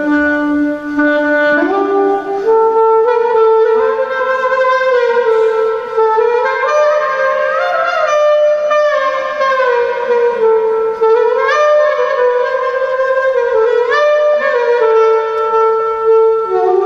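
Turkish art music ensemble playing an instrumental passage: a wind instrument carries an ornamented melody of held notes that step up and down with small slides between them.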